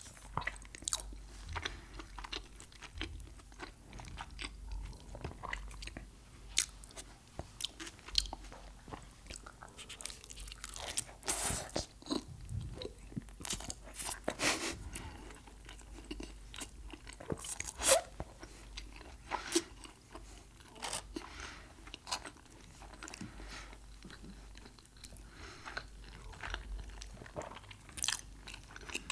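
Close-miked eating of Mexican food: irregular crunchy bites and chewing, with a few louder crunches along the way.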